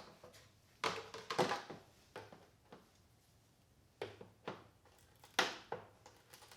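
Intermittent clicks, knocks and scrapes of hand tools and plastic body parts being handled during disassembly of an ATV, with a quiet pause of about a second in the middle.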